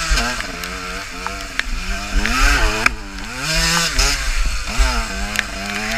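KTM EXC 125 two-stroke enduro motorcycle engine revving up and falling back several times as the throttle is worked, with a few sharp knocks from the bike over the ground.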